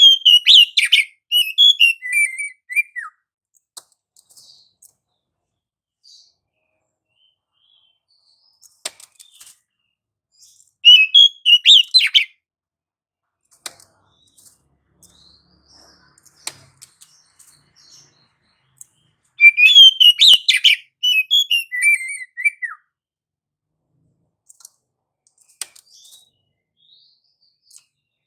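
Oriental magpie-robin (kacer) singing in three bursts of rapid, high chattering notes. The first and last bursts run about three seconds and end in falling notes; the middle one, about halfway through, is shorter. Long quiet pauses separate them.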